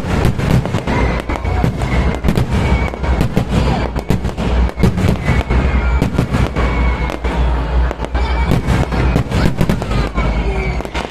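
Fireworks going off in quick succession: a dense, continuous run of sharp bangs and crackles, several a second.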